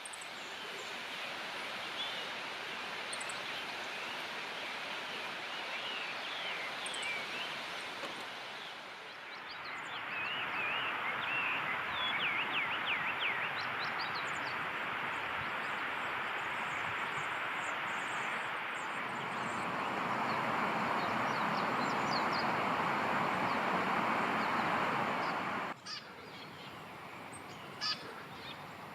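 Birds calling and chirping over a steady rushing background noise. The background shifts abruptly twice.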